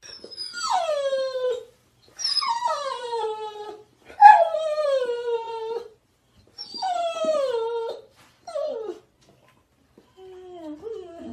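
A dog whining in long cries that each slide down in pitch: four of them about two seconds apart, then a short one and a fainter, lower one near the end.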